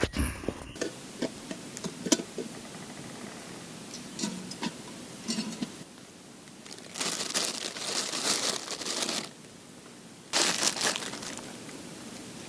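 Handling noises: scattered small clicks and knocks, then two longer stretches of crinkling rustle, about seven and ten seconds in.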